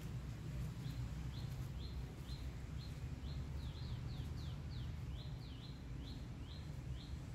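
A small bird calling a quick series of short, high chirps, about two or three a second, starting about a second in, over a steady low background rumble.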